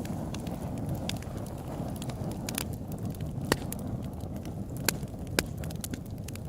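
Open-air campfire crackling: frequent sharp snaps and pops over a steady low rumble, with a few louder pops around the middle and later in the stretch.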